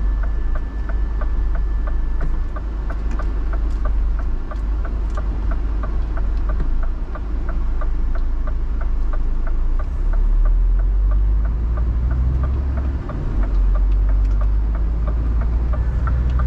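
Scania R 450 truck's 13-litre straight-six diesel running, a low rumble that grows louder about ten seconds in, with a steady rapid ticking of about three a second over it.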